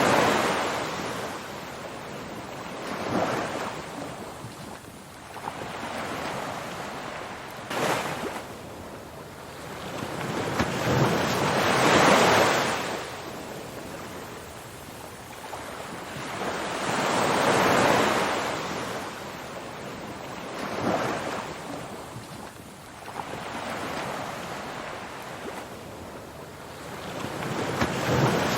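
Ocean surf washing ashore: waves swell up and fall away in surges every few seconds, over a constant hiss.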